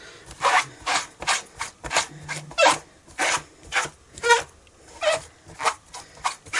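A Stampin' Shammy cleaning cloth being scrubbed against a stamp to wipe off StazOn ink: a run of scratchy rubbing strokes, about two a second, somewhat irregular.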